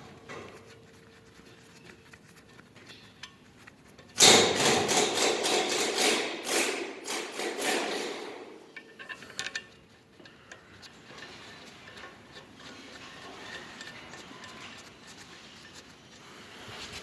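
Metal tool work on a round baler roller. About four seconds in comes a loud burst of rapid metallic knocking and rattling that lasts about four seconds, then fades to faint, steady workshop noise.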